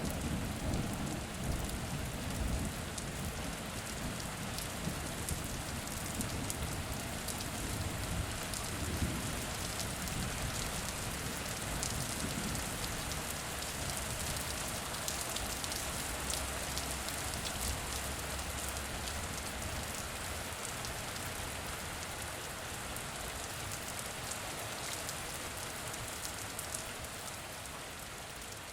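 Steady rain falling on a surface, with a low rumble of thunder dying away in the first few seconds.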